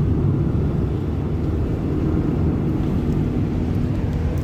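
Car engine running steadily as it drives up a hill road, with a low drone and road and wind noise.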